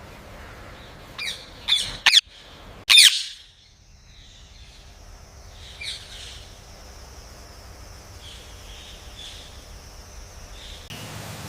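Parrot squawking: four loud, sharp squawks in quick succession between about one and three seconds in, then one softer call around six seconds and a few faint chirps after it.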